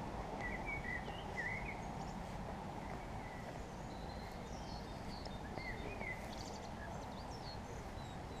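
Small songbirds chirping and singing in short, quick phrases, over a steady low background noise.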